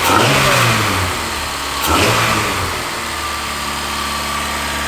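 Honda Civic EG's B-series Type R four-cylinder engine running: it is blipped up and back down twice, then settles into a steady idle. This is its first start after a year off the road, and it is running with no antifreeze in the cooling system.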